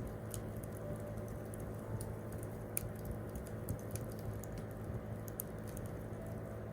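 Wood campfire crackling: irregular sharp snaps and pops over a steady low rumble of the burning fire.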